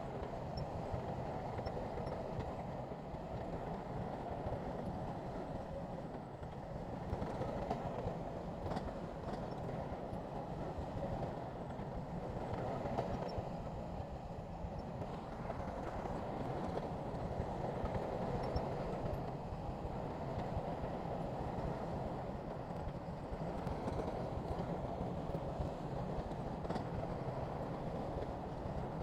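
Heavy diesel earthmoving machinery running steadily under load, a low, even rumble with a few faint clicks.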